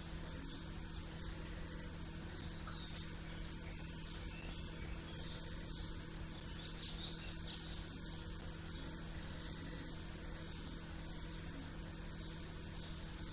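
Many small birds chirping together in a dawn chorus, with short overlapping calls throughout. There is one sharp click about three seconds in, over a low steady hum.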